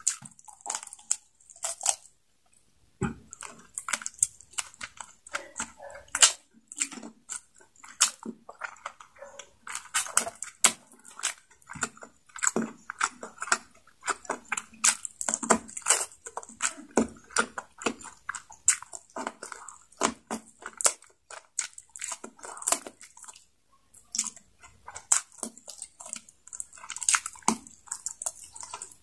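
Close-up chewing and biting of adobo chicken necks eaten by hand: a dense run of wet smacks and short sharp clicks from mouth and lips, with a couple of brief pauses.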